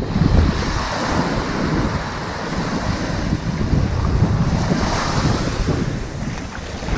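Ocean waves breaking and washing up on a sandy beach, with a steady low rumble. The wash swells twice, about a second in and again around five seconds.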